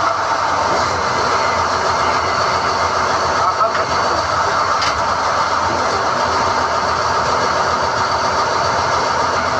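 SDH-1600 core drilling rig running steadily while hoisting NQ drill rods out of the hole.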